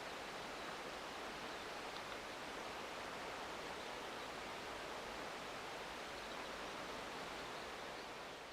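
Steady, even hiss of outdoor ambience with no distinct events, such as the wash of a calm sea or a light breeze.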